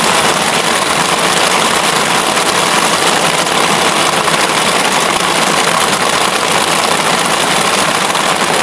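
Heavy rain pouring down steadily on a canvas tent, its tarpaulin sides and wet grass.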